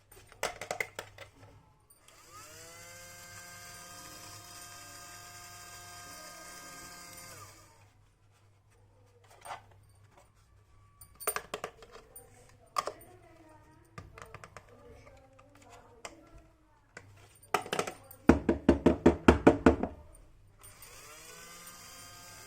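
Small electric motor of a toy mini washing machine spinning up and whirring steadily for about five seconds, then stopping. Plastic clicks and taps follow, then a loud burst of rattling clatter, and the motor spins up again near the end.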